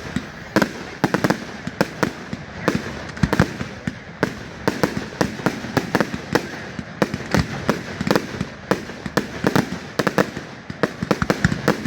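Fireworks display going off continuously: a rapid, irregular barrage of bangs and crackles, several a second, over a steady rumble of echoing reports.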